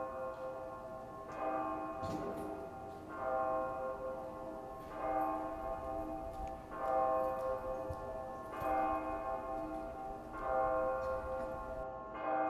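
A bell struck slowly and regularly, about once every two seconds, each stroke ringing on with many overtones until the next.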